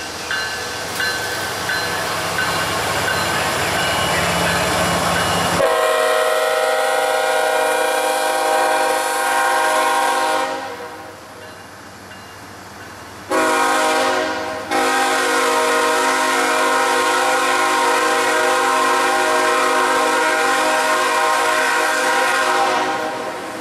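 Freight train passing close by: a CSX diesel locomotive rumbles past, then autorack cars roll by. A diesel locomotive's multi-chime horn sounds two long blasts over the passing cars, one from about six seconds in for about five seconds and another from about thirteen seconds in almost to the end, the second with a brief break.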